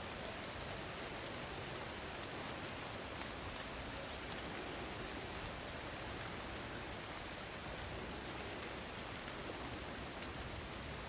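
Steady rain falling in a forest, an even hiss with scattered individual drops ticking.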